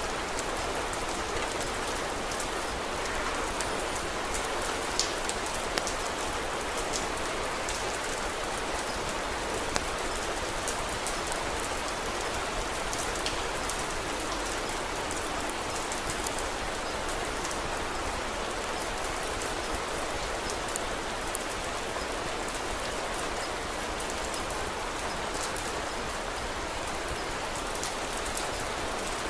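Steady rain falling, a constant even hiss, with scattered sharp crackles from a wood fire now and then.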